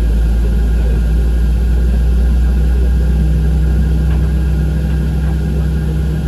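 Steady low rumble of an airliner's jet engines heard from inside the passenger cabin, with a constant hum running through it.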